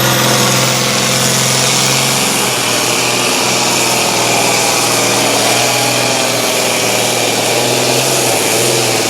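Competition pulling tractor's engine running hard at steady high revs under load, with a faint high whine above it.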